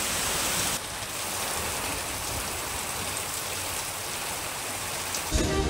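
Heavy rain pouring steadily, an even dense hiss with no breaks. Music comes in near the end.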